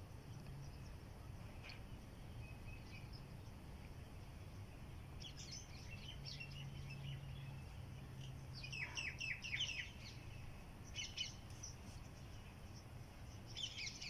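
Small birds chirping faintly in several short bursts of quick high notes, the busiest flurry about two-thirds of the way through, over a faint low steady hum.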